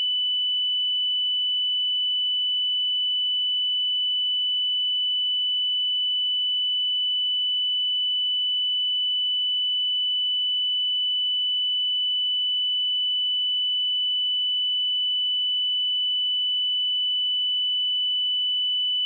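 A steady pure sine-wave test tone at 2987 Hz, a single high-pitched unwavering pitch at constant loudness, used to check speakers or headphones.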